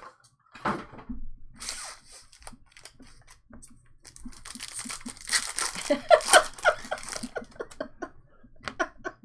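Foil trading-card pack wrappers tearing and crinkling as packs are opened, in a few short rasps and one longer tear-and-crinkle in the middle.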